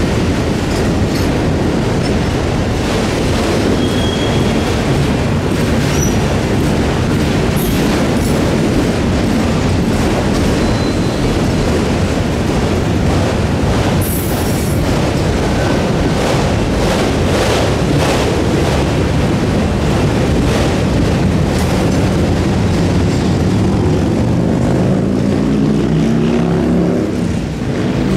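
Freight train cars rolling past with a steady heavy rumble and rapid clicking of wheels over the rail. There are several brief high wheel squeals, and a low drone slides in pitch near the end.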